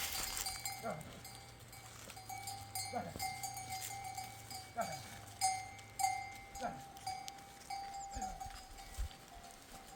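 Bells on a flock of sheep and goats clinking and ringing, with several short animal calls that fall in pitch.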